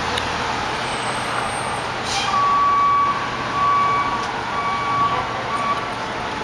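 A truck's reversing alarm sounds several beeps over steady street traffic noise, just after a short hiss.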